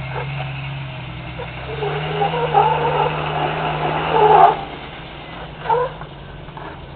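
Jeep Wrangler YJ engine pulling under load on a steep rock climb, revving up about two seconds in, holding higher for a couple of seconds, then easing back off.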